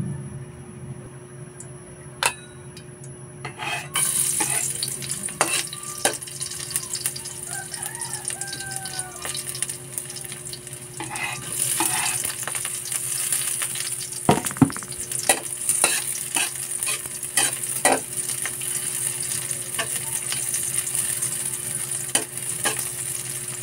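Chopped onion and garlic hit hot oil in an aluminium wok and start sizzling about four seconds in. The sizzling grows louder a little before halfway as more is scraped in. A spatula stirs the sauté with repeated sharp knocks and scrapes against the wok.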